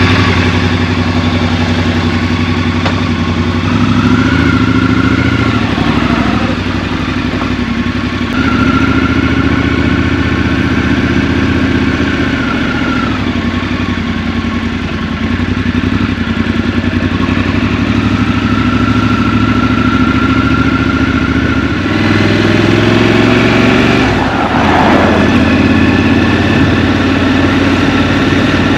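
Scrambler motorcycle engine running under the rider, its note stepping up and down several times as it accelerates and changes gear. Near the end it revs up and drops back.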